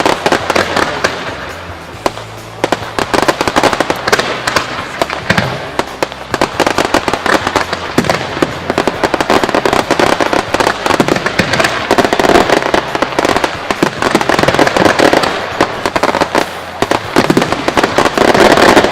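Fireworks going off in a dense, rapid barrage of bangs and crackling, with many cracks a second and the heaviest volley near the end.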